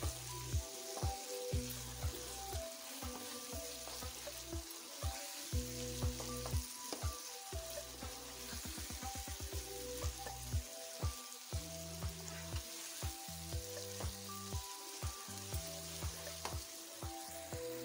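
Mutton mince and tomatoes frying in ghee in a wok, sizzling steadily, while a spatula stirs and scrapes through it with many short knocks against the pan. This is the bhuna stage, frying the mince over high heat until its rawness is cooked off and the ghee separates.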